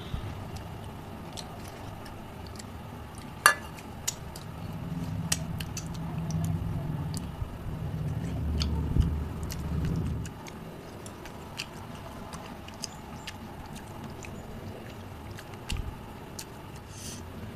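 Close-miked chewing of fish curry and rice eaten by hand, with scattered wet mouth clicks and smacks. One sharp click comes about three and a half seconds in, and the chewing is louder and more muffled from about five to ten seconds.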